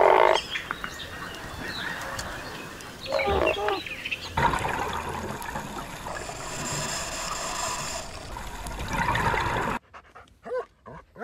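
Water lapping with a single harsh heron croak about three seconds in, then a steady rushing noise. Near the end, after a sudden drop in level, a dog panting softly.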